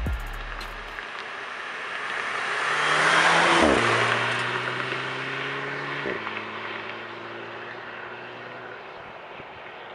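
2012 Volkswagen GTI's turbocharged four-cylinder engine as the car drives past, growing louder as it approaches. The engine note drops sharply as it passes about three and a half seconds in, drops again about six seconds in, then fades as the car drives away.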